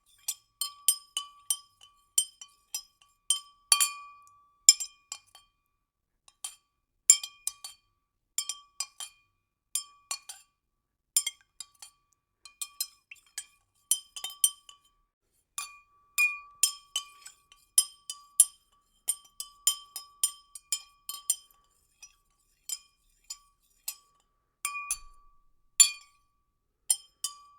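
A spoon stirring liquid in a glass, clinking irregularly against the glass a few times a second. Each clink leaves the glass ringing with a clear tone.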